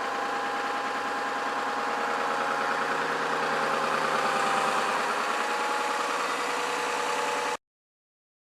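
Ford F-250's turbo-diesel V8 idling just after start-up, with a fast, even diesel clatter. It swells slightly midway, then the sound cuts off suddenly near the end.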